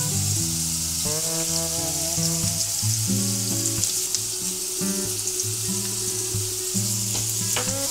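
Hamburger patties sizzling in a hot frying pan, a steady hiss throughout, with background music playing along underneath.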